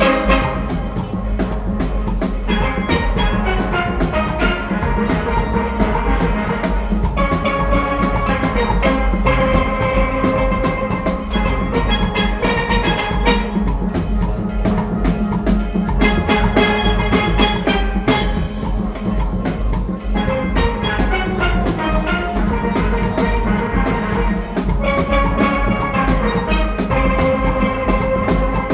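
A steel orchestra playing: many steelpans ringing out a fast melody and chords over a driving drum-kit and percussion rhythm.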